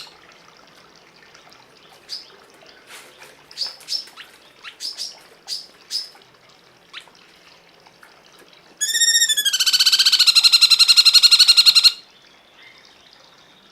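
Cungkok bird calling: a scattering of short, sharp chirps, then a loud, harsh buzzing trill of about three seconds that rises briefly in pitch, settles, and cuts off.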